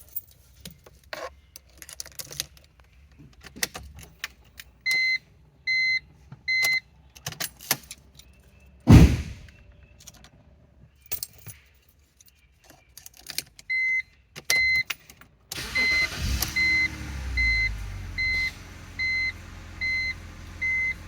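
Car keys jangling and clicking, with the BMW X3's warning chime beeping in short groups and a heavy thud about nine seconds in. About fifteen seconds in, a steady low rumble starts, a start attempt on the no-start E83 X3, while the chime keeps beeping about once a second.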